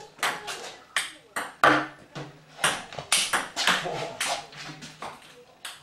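Table-tennis rally: a ping-pong ball clicking back and forth off paddles and table in a quick run of sharp taps, about two to three a second.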